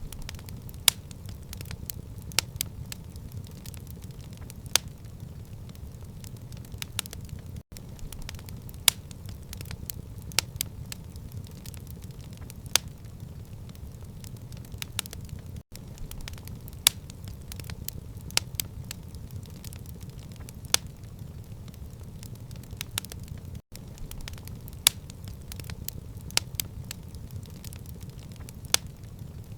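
Wood fire crackling: irregular sharp pops and snaps, several a second with a louder one every second or two, over a steady low rumble of the flames. The sound cuts out for an instant about every eight seconds.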